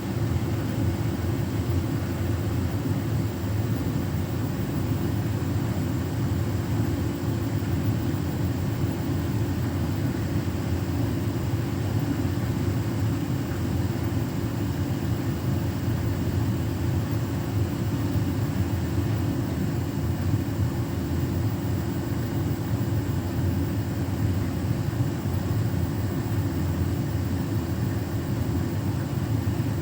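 Beko WTK104121W front-loading washing machine spinning its drum on the 1400 rpm final spin, a steady, unchanging rumble and whirr.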